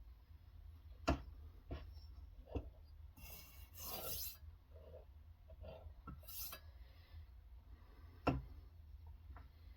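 Sharpening stone rasping in short strokes along a knife edge in a guided sharpening system, with sharp clicks and taps between the strokes; the loudest clicks come about a second in and just past eight seconds.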